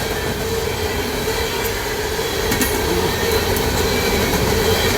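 Train rolling past close by: a steady dense rumble of wheels on rail with a constant tone held through it and a few faint clicks.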